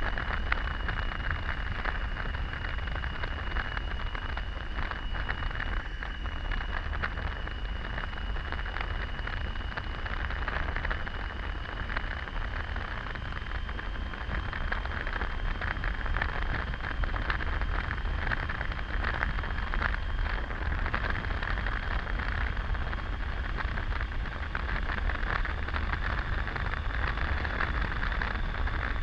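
Triumph Tiger 800 three-cylinder motorcycle cruising at steady speed on a highway: a continuous rush of wind and road noise over a low engine rumble. A faint steady high whine runs through it.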